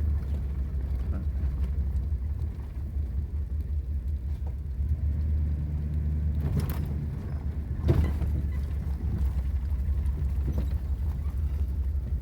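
Vehicle moving slowly along a grass-covered dirt road, with a steady low rumble. A couple of brief knocks come about two-thirds of the way through, the second the loudest.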